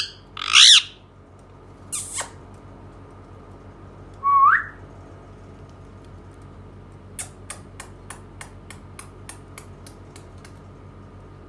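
Indian ringneck parakeet calling: a loud shrill squawk, a shorter squawk, then a single rising whistle. About halfway through comes a run of about a dozen short clicks, roughly four a second, growing fainter.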